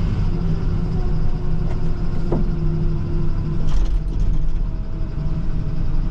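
Plow truck's engine running steadily, heard from inside the cab while driving. There is a sharp click a little over two seconds in and a brief rattle under four seconds in.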